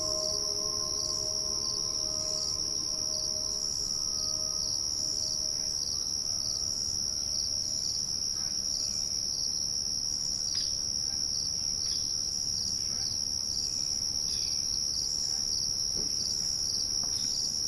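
Steady high-pitched insect chorus, a continuous pulsing trill, with a few fading pitched tones in the first few seconds and some faint chirps later on.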